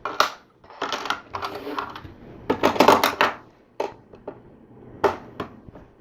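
Plastic LEGO pieces clicking and rattling as they are pressed together and handled, in several short clusters of sharp clicks.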